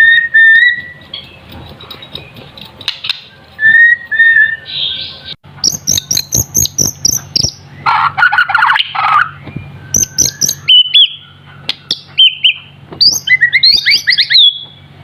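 Young white-rumped shama (murai batu) still in juvenile plumage, singing in full song. It starts with clear whistled notes, moves into quick runs of very high notes, gives a harsh scratchy phrase about eight seconds in, and ends with warbled, whistled phrases.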